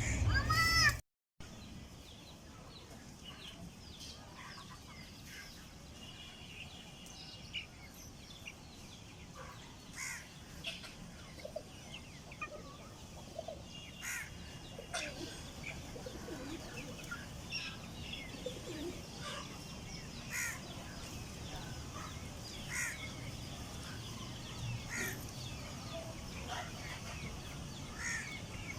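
Domestic hen with her chicks: many short, scattered peeping chirps from the chicks, with occasional clucks.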